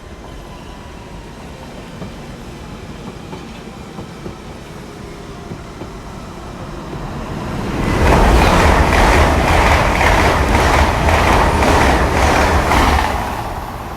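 GWR Class 800 IET express passing through the station at speed: a rising rush that turns loud about eight seconds in, with the wheels clicking over rail joints in a quick, regular rhythm, then falling away about five seconds later. A quieter train rumble comes before it.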